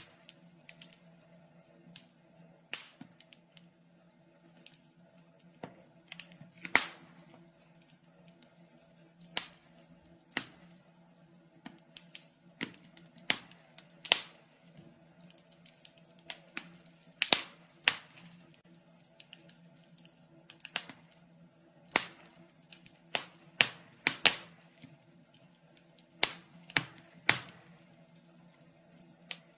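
Fire in a fireplace crackling: irregular sharp pops and snaps, some much louder than others, over a faint steady hum.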